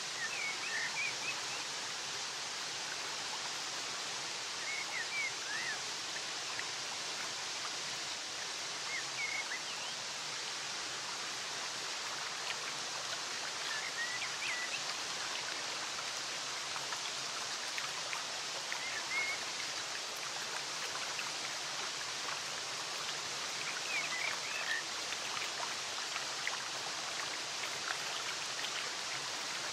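Flowing stream water making a steady rushing hiss, with short bursts of small-bird chirping every four or five seconds.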